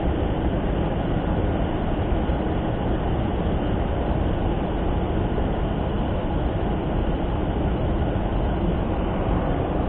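Steady, even rushing of flowing stream water, with no breaks or changes.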